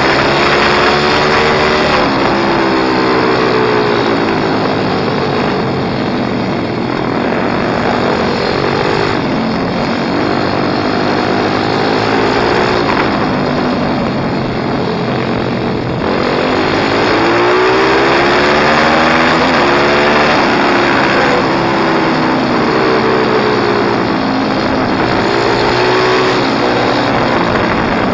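Pit bike engine revving up and down over and over, its pitch repeatedly rising and falling as the throttle opens and closes.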